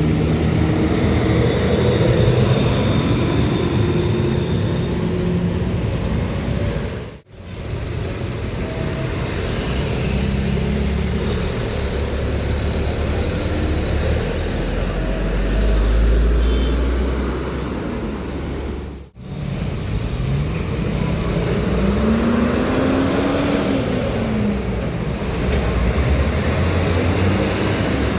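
Diesel trucks passing on a road with traffic, engines running and changing pitch as they rev and pass. The sound breaks off abruptly twice, about 7 and 19 seconds in.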